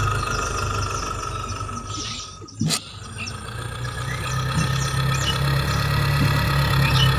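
Miniature diesel-engine water pump running steadily, with a sharp click a little over two and a half seconds in. Faint bird chirps sound over it.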